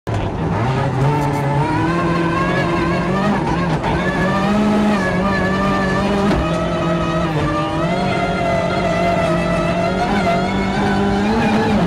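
Ford Focus RS WRC rally car's turbocharged four-cylinder engine heard from inside the cockpit, pulling hard at a steady pitch that climbs slowly, dips briefly about halfway through, then climbs again near the end. The car is stuck in sixth gear, so the revs rise only slowly.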